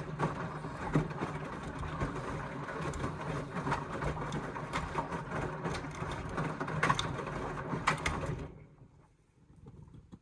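Indesit washing machine turning its drum during a rinse: the motor runs steadily with a low hum and scattered clicks and knocks from the tumbling load, then winds down and stops about eight and a half seconds in.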